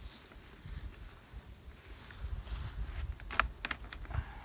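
Steady high-pitched insect trilling over a low, uneven rumble, with a few sharp clicks about three and a half seconds in.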